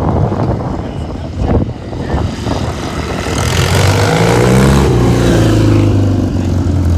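Classic motorcycle engine running, blipped once about halfway in so its pitch climbs and falls back, then running steadily.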